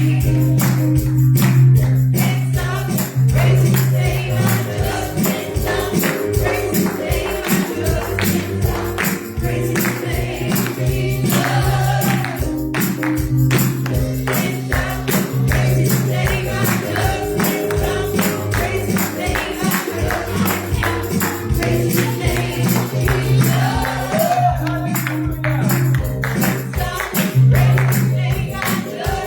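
Live gospel music with a fast, steady beat: bass, tambourine or drum strikes, and voices singing.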